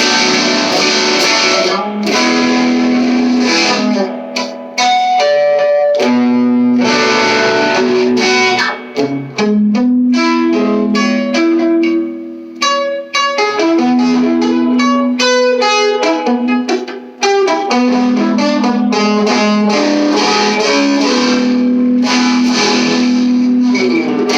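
Electric guitar played through a small all-tube amp with the guitar's tone knob rolled all the way down, alternating held chords with single-note lines.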